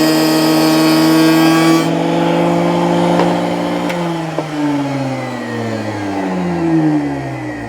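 Router in a router table running at full speed with a V-groove bit, a harsh high hiss over its motor whine that drops away about two seconds in. About four seconds in the motor is switched off and winds down, its pitch falling steadily.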